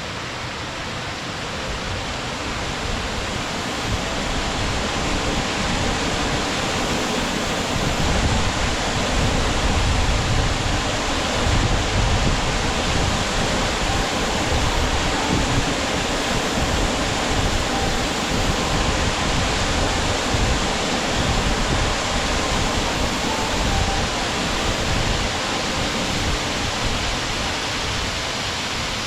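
Waterfall: a steady rush of falling water, growing a little louder over the first several seconds and then holding even.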